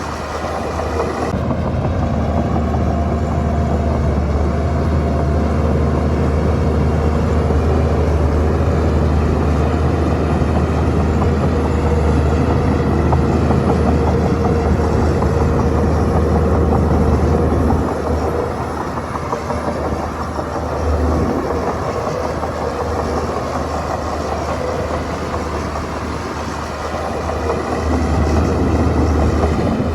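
Bulldozer diesel engine running under load with a strong low hum. It eases off about two-thirds of the way through and builds again near the end.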